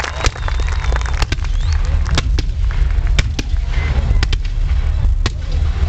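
Fireworks display: a dozen or so sharp bangs and cracks at irregular spacing from shells launching and bursting, over a steady low rumble.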